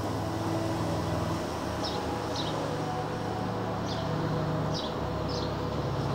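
A bird chirps about five short times over a low steady hum that shifts pitch in steps a few times.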